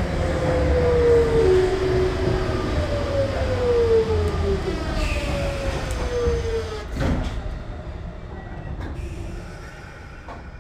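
Sotetsu new 7000 series electric train's GTO VVVF inverter whining under regenerative braking, the whine falling in pitch in several steps as the train slows, over rail and running noise. About seven seconds in the whine ends with a clunk as the train comes to a stop, and the noise drops away.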